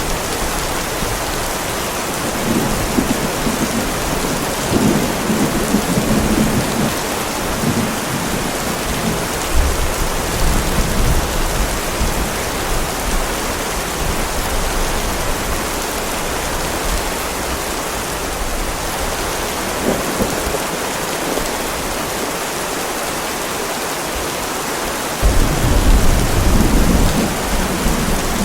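Heavy rain falling steadily, with thunder rumbling in low swells several times and a louder rumble starting near the end.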